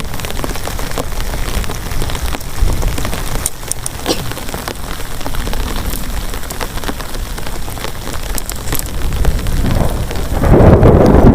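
Heavy rain falling steadily, with many sharp drop ticks on a hard surface. A loud low rumble swells up near the end.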